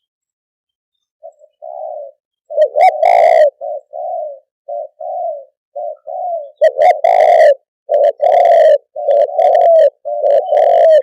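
Spotted dove cooing close by, in repeated phrases of short low coos that begin about a second in, with several louder, harsher notes among them.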